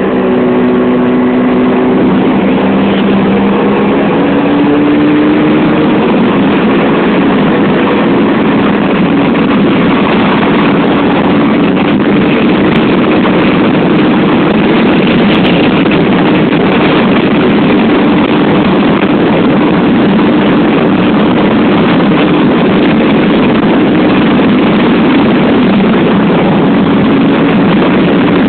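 Jawa 350 type 639's two-stroke twin engine running under way at a steady cruising speed, heard from the saddle with heavy wind rush over the microphone. The engine note climbs a little over the first few seconds, then holds steady.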